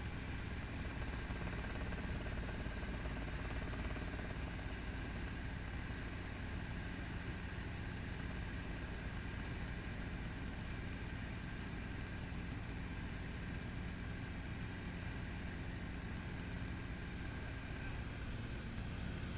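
Helicopter engine and rotor running, a steady unchanging drone heard from inside the cabin.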